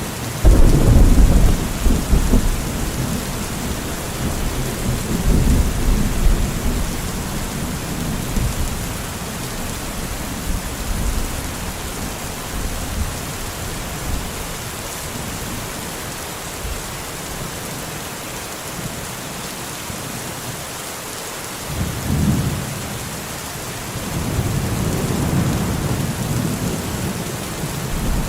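Steady rain with thunder: a long, low rolling rumble starts about half a second in and fades over several seconds, and a second roll comes near the end.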